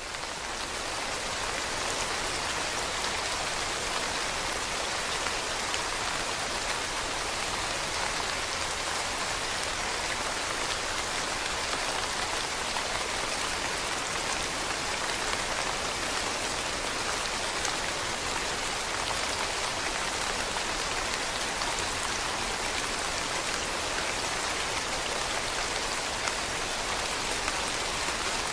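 Steady rain falling on leaves, a dense even patter of many drops.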